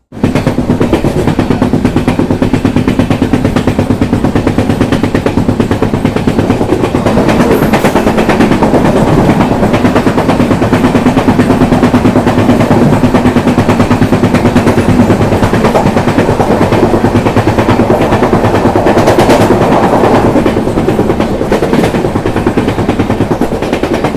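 Loud, continuous rumble and rapid clatter of a passenger train with LHB coaches running at speed, heard close to an open door, while another train passes on the next track.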